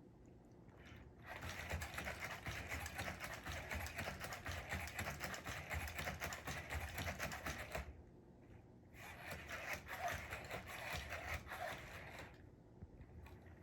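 Sony aibo robot dog's motors whirring, with rapid clicking as it moves, in two long stretches: about six seconds, a short pause, then about three more.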